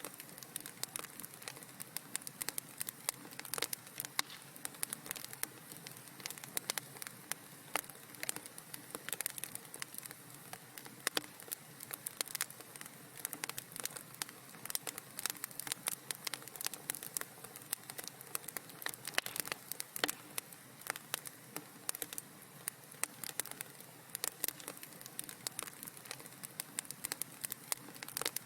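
Wood fire in a fireplace crackling: a dense, irregular run of sharp pops and snaps over a soft steady hiss.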